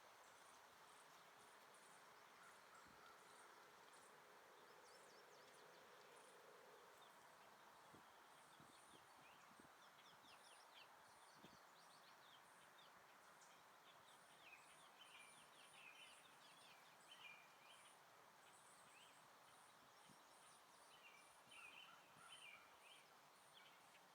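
Faint natural ambience over a soft hiss: a high insect trill pulses on steadily while small birds chirp in short quick bursts, loudest a little past the middle and again near the end.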